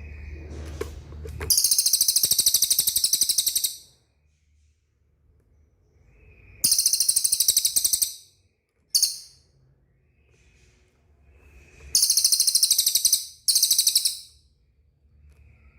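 Cililin bird singing loud, high, very fast trills in separate bursts: a long phrase, a shorter one, a brief chirp, then two phrases close together near the end, with pauses between.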